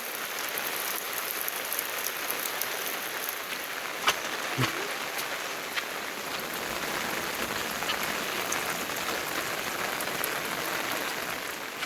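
Steady rain falling, with a couple of sharper drip taps about four seconds in.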